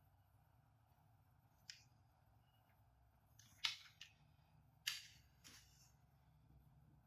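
Near silence broken by four short plastic clicks and rattles, the loudest about three and a half seconds in: small plastic toys being handled.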